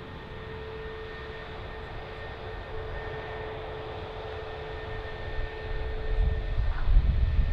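Jet aircraft engines running at low power with a steady whine over a noisy rumble. The low rumble swells louder over the last two seconds.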